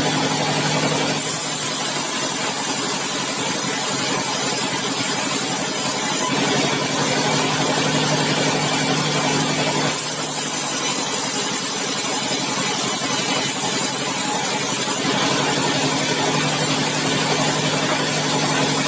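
Sawmill machinery running steadily with a constant engine hum. Twice a high hiss comes in for about five seconds at a time and then stops.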